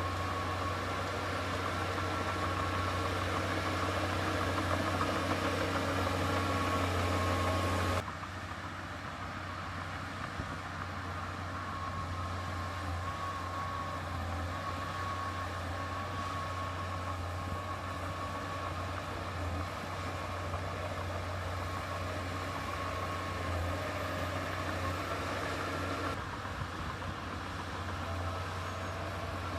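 Heavy diesel earthmoving machinery running steadily with a low engine hum and a faint wavering whine above it. The sound changes abruptly about eight seconds in and again near the end, as the scene cuts between machines or shots.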